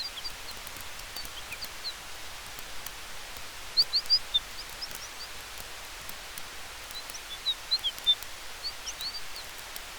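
Campfire ambience: a steady hiss with faint scattered crackles. Over it come small high chirps, like birds, in three short flurries: at the start, about four seconds in, and again near the end.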